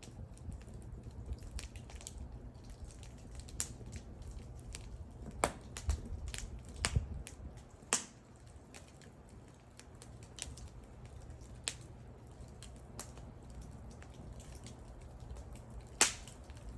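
Wood fire burning with irregular crackles and sharp pops over a low rumble, the loudest pop about sixteen seconds in.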